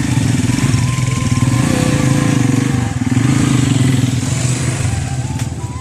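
A motorcycle engine running steadily, its pitch and level dipping briefly about halfway through and then picking up again.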